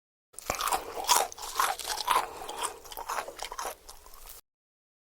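Crunchy food being bitten and chewed close to the microphone: a run of irregular crunches that starts just after the beginning and cuts off abruptly about a second before the end.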